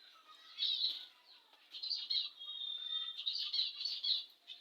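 Budgerigars chirping and warbling: a short burst of high chirps about half a second in, then a longer run of chattering with a held whistled note in the middle.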